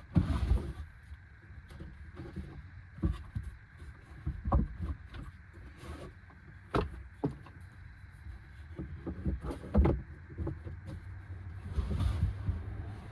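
Someone moving about and handling things in a cramped camper shell: irregular knocks, bumps and thumps, with the loudest ones at the start and just before the ten-second mark, over a low rumble.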